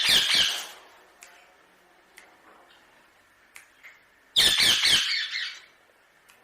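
Indian ringneck parakeet squawking: two loud, harsh screeches, one at the start and another about four and a half seconds in, with a few faint ticks between them.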